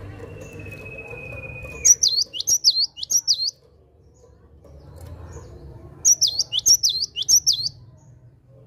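Cinereous tit (gelatik batu) singing two quick phrases of about five sharp notes each, every note sliding downward: one phrase about two seconds in, one about six seconds in. Before the first phrase, a steady high tone holds for about two seconds.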